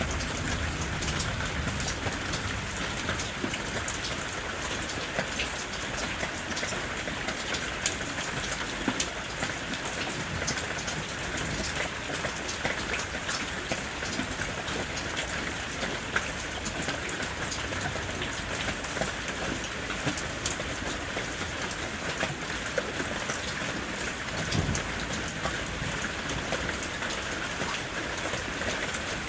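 Steady heavy rain falling, with many sharp drop hits on a surface and a brief low rumble near the end.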